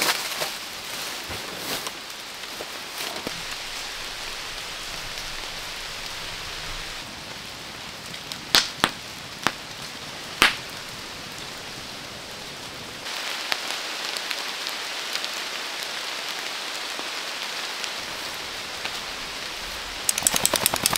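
Steady hiss of rain falling. Near the middle, a wood campfire burning, with three sharp pops from the burning logs, and a quick run of ticks just before the end.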